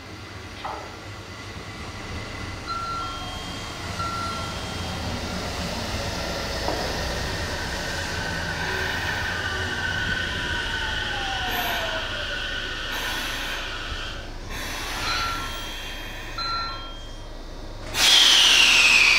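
JR Central 313 series electric train running along the line, its wheel and motor noise swelling and then fading over about twelve seconds. A short high tone repeats twice in the background, and near the end a much louder train sound starts abruptly with a falling high whine.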